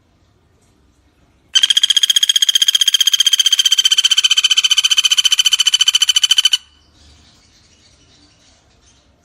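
Common flameback woodpecker (pelatuk bawang) calling: one loud, rapid rattling trill of many quick notes, starting about a second and a half in and lasting about five seconds before it cuts off.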